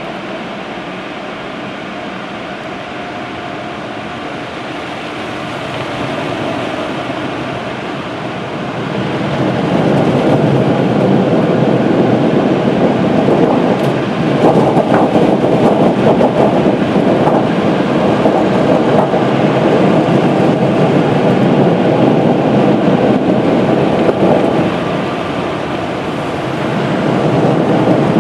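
Automatic car wash working over the car, heard from inside the cabin: a loud, steady rushing rumble. It swells about nine seconds in, dips briefly near the end, then rises again.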